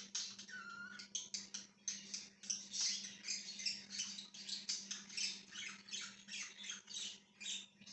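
Budgies chirping in a rapid, dense run of short calls, one after another, with a faint steady hum underneath.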